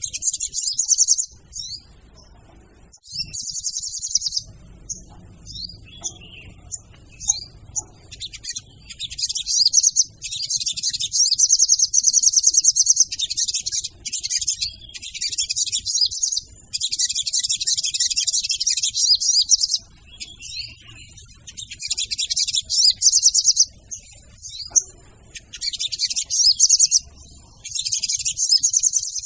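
Female sogon bird calling: rapid, high-pitched trills that come in bursts of one to three seconds, with short sharp chirps in between, used as a lure call to draw other sogon birds.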